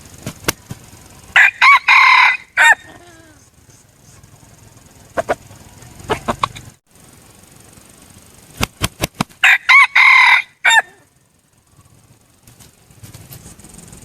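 Junglefowl rooster crowing twice, each a short stepped crow about a second long, with a few sharp clicks or taps before each crow.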